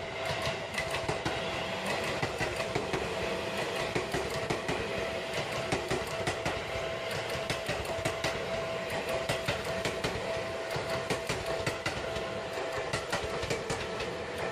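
Electric commuter train running along the track, its wheels clicking rapidly and continuously over rail joints, with a steady high tone held throughout.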